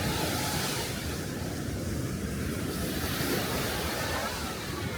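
Small Aegean Sea waves washing onto the beach, swelling and falling back twice, with wind rumbling on the microphone.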